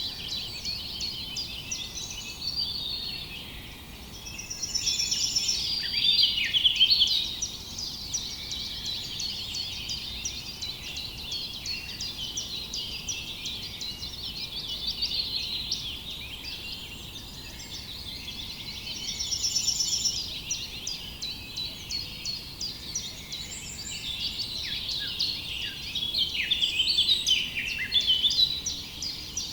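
Many small birds chirping and singing at once in a dense, unbroken chorus that swells louder a few times.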